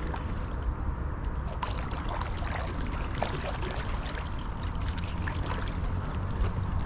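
Kayak paddling: water splashing and dripping off the paddle blades in many small, irregular splashes, over a steady low rumble.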